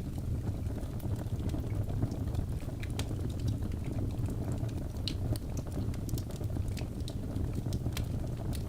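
Birch logs burning in a fireplace: a steady low rumble of flames with frequent sharp crackles and pops scattered irregularly throughout.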